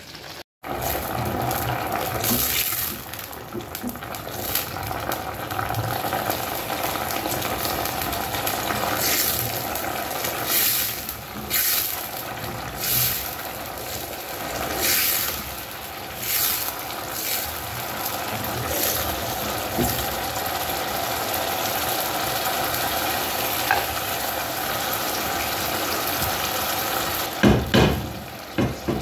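Pepper paste frying in hot oil in a stainless steel pot: a steady sizzle, with short louder bursts every second or two and a few louder sounds near the end.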